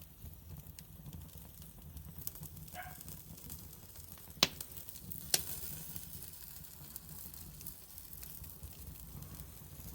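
Beef steaks sizzling on a charcoal grill, a steady hiss with two sharp crackling pops about four and five seconds in.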